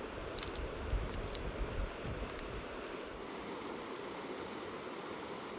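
Rushing river water, a steady hiss, with gusts of wind buffeting the microphone and a few light clicks in the first two seconds.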